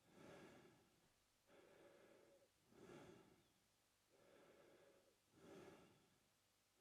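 A man breathing slowly and evenly through his mouth, with a full breath cycle about every two and a half seconds. Each cycle is a longer, softer breath followed by a shorter, sharper, airier one.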